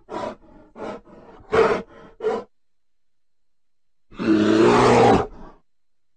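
Bear vocalising: a run of about five short, quick calls in the first two seconds, then after a pause a single loud roar lasting about a second and a half.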